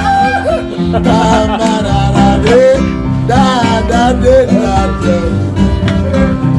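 Acoustic guitar strummed steadily as accompaniment between sung lines, with a voice heard briefly over it a few times.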